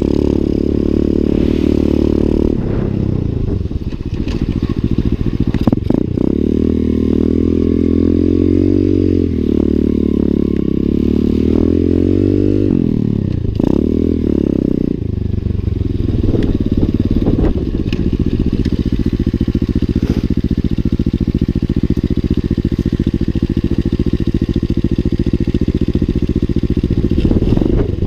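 Lifan 125 cc single-cylinder four-stroke pit bike engine running while ridden. The revs drop and climb again several times in the first half, with a few sharp clacks, then hold steady.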